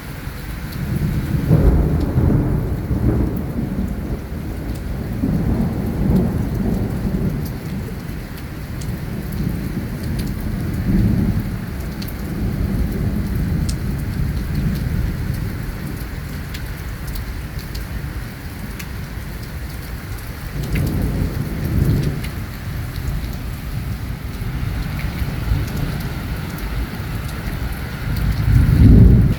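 Thunderstorm: steady rain with several long, low rolls of thunder swelling and fading, the loudest near the end.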